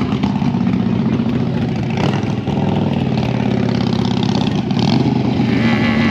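Motorcycle engine idling with a steady low note.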